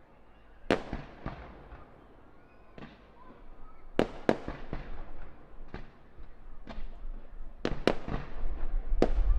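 Fireworks display: aerial shells bursting in about a dozen sharp bangs at irregular intervals, each trailing off. The bangs come closer together from about four seconds in, and a low rumble builds near the end.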